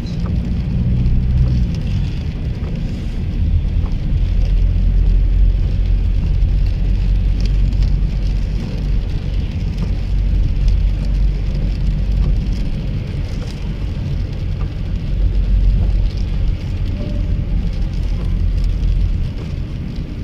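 Car on the move in the rain: a steady low rumble of engine and tyres on the wet road, with rain hitting the car in light scattered ticks.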